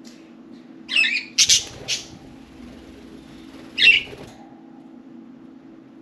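Budgerigars giving a few loud harsh squawks, a cluster of three about a second in and one more near four seconds, over a steady low hum.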